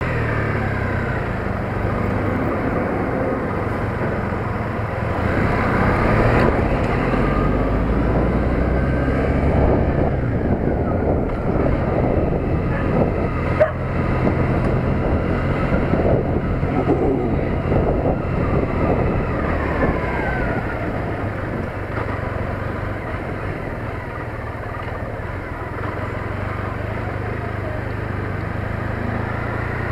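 Triumph Bonneville T100 parallel-twin engine running as the motorcycle is ridden at low speed, heard through an action camera mounted at the handlebars, with the engine note rising and falling. One sharp click comes a little before halfway.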